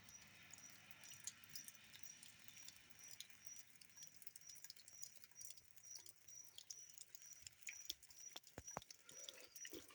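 Faint high-pitched chirp from a small animal, repeating at an even rate of about two to three times a second, with scattered faint clicks.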